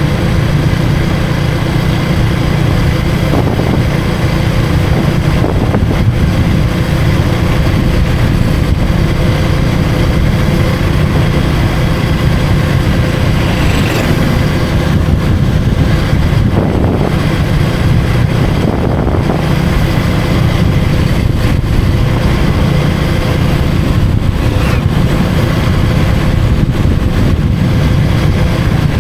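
KTM 250 Duke's single-cylinder engine running steadily at cruising speed, with constant wind and road noise.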